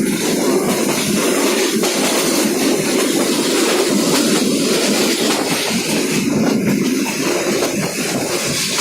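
Moving passenger train: a steady, loud rushing noise of the running train.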